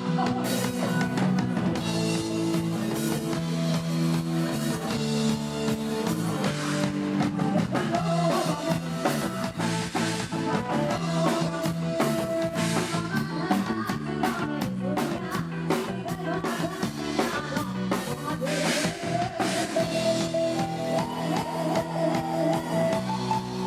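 Live band music in Isan luk thung/mor lam style: a drum kit keeping a steady beat under electric guitar and sustained melodic instrument lines.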